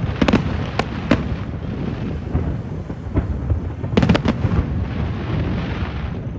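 Fireworks and firecrackers going off: a few sharp cracks in the first second or so and a quick cluster of several more about four seconds in, over a continuous rumble of more bangs.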